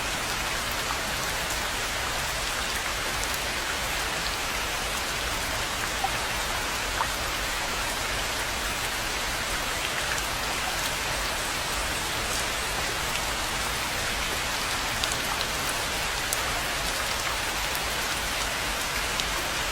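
Steady rain falling on a pond and the surrounding rainforest foliage: a dense, even hiss of rain with scattered louder individual drops.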